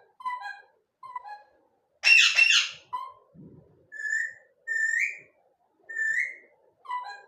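Pet parrot calling: a run of short whistled notes, about one a second, several of them rising. A loud harsh squawk comes about two seconds in.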